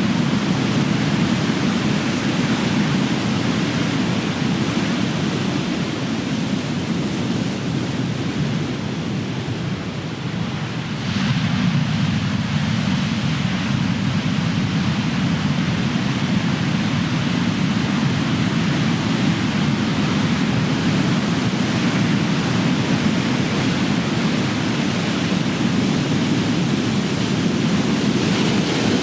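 Big ocean waves crashing in a continuous wash of surf. The surf eases briefly, then a wave breaks about eleven seconds in.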